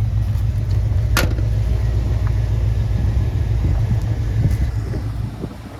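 Ford 5.8 L (351 Windsor) V8 of a 1989 Bronco idling steadily at about 700 RPM once warmed up, a stable idle after cooling, fuel and ignition work. A sharp click sounds about a second in, and the engine sound drops a little near the end.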